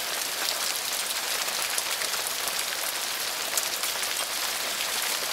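Steady rain falling on wet ground: an even hiss scattered with many small drop splashes.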